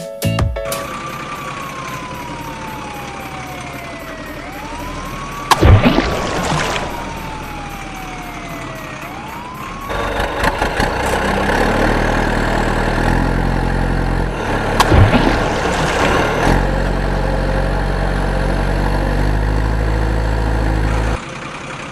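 Sound effects of a vehicle accident. A slow wailing siren sweeps down and back up in pitch, broken by a loud crash about five and a half seconds in. Then a heavy vehicle engine runs steadily, with another bang partway through, and cuts off suddenly near the end.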